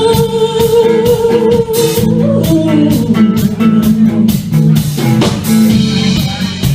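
Live blues-rock band playing: a long held vocal note on the end of the chorus lasts about two seconds, then guitar lines and a drum kit carry on into an instrumental break.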